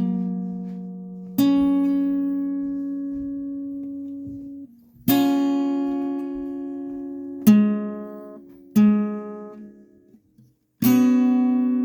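Guitar playing slow chords with no singing: five chords struck one at a time, each left to ring and fade for a few seconds before the next.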